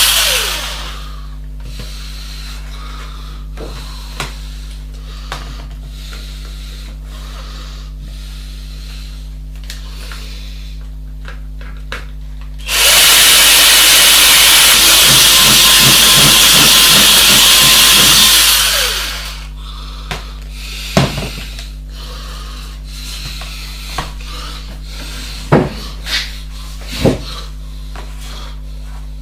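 A loud, steady hiss of rushing air or spray starts about halfway through and lasts some six seconds. Scattered light clicks and knocks of handwork come before and after it, over a low steady hum.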